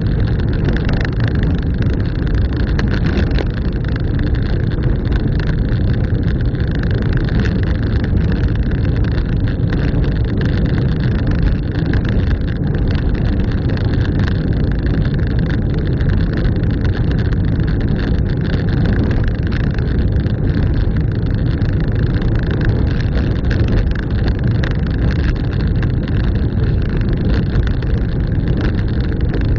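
Car driving along at a steady speed: even engine and tyre rumble, weighted to the low end, with no change in pace.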